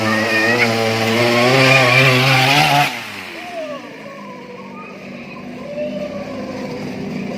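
Small lawn-mower engine running fast, with a high buzzing note that wavers a little; it stops abruptly about three seconds in, leaving fainter, uneven sound.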